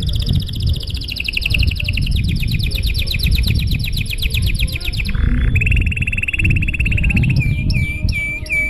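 Domestic canary singing in long rolling trills: a rapid, even trill of high notes for about five seconds, a short break, a lower trill, then a few repeated swooping notes near the end.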